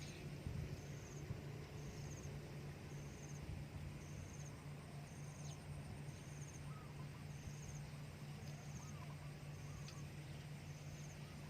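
Faint insect chirping: a short, buzzy, high-pitched pulse repeating evenly a little over once a second, over a low steady hum, with a few faint distant bird calls in the middle.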